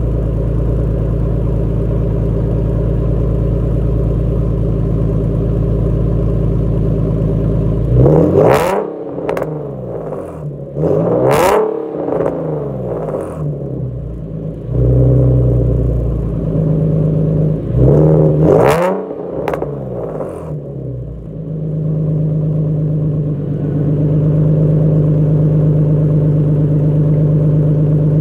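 Straight-piped 2009 Nissan 370Z's 3.7-litre V6 (non-resonated test pipes, Nismo H-pipe, short tails) idling steadily, then blipped through several sharp throttle revs that rise and fall quickly, one small one among them, before settling back to a steady idle.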